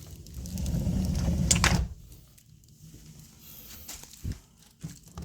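A sliding door rolling along its track with a low rumble, ending in a knock as it reaches the frame. A few faint clicks follow later.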